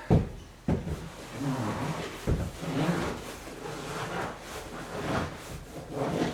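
A 1988 Pontiac Fiero seat being moved all the way down: a sharp knock right at the start, another just before a second in and a louder one a little over two seconds in, with rubbing and creaking of the seat and its new cover in between.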